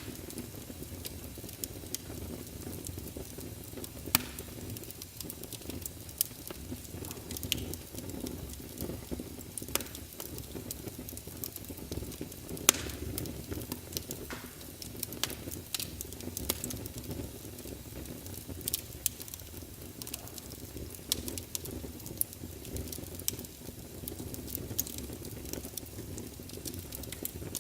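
Wood fire burning in a fireplace: a steady low rumble of flames with frequent irregular sharp crackles and pops from the logs, two of them louder about four and twelve seconds in.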